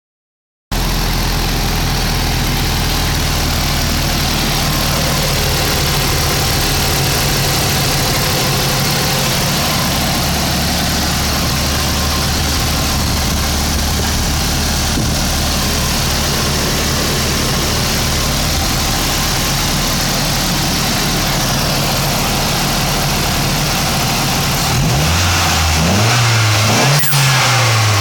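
Nissan S13's engine idling steadily, then revved several times near the end, its pitch rising and falling with each blip.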